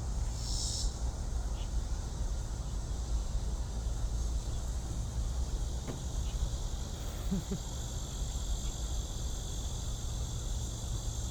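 Insects chirring steadily in a high, even drone over a constant low rumble.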